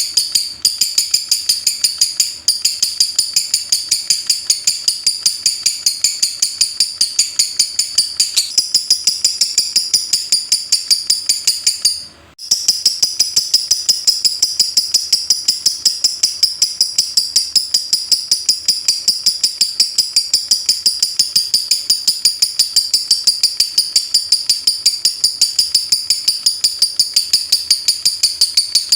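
Lovebird giving its 'ngetik' song: a loud, fast, unbroken string of sharp high chips that sounds like rapid typing, with one brief break about twelve seconds in.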